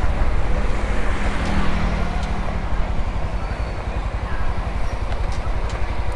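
Road traffic and vehicle engine noise while driving: a steady low rumble, with an engine hum standing out briefly about a second in.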